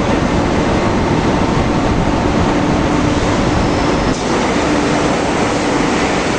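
Rebar rolling mill machinery running: a loud, steady, dense mechanical noise with a faint steady hum underneath.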